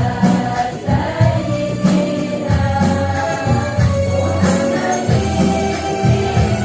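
Women's choir singing an Islamic devotional song (sholawat) to instrumental accompaniment, with repeated low notes underneath and regular percussion strikes.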